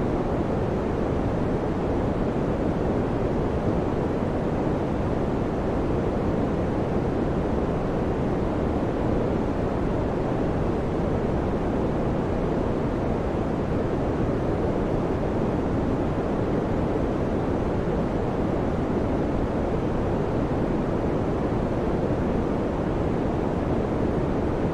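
Electric fan running steadily: a constant low, even whoosh of moving air with no rhythm or changes.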